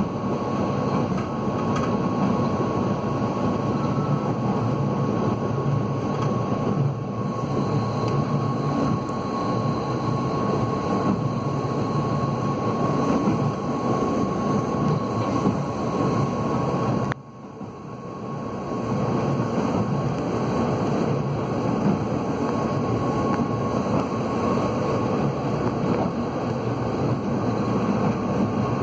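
Passenger train running at speed, heard from inside the carriage: a steady rumble of wheels and coach with a thin, steady high hum. About two-thirds of the way through, the sound drops away suddenly and builds back up over a couple of seconds.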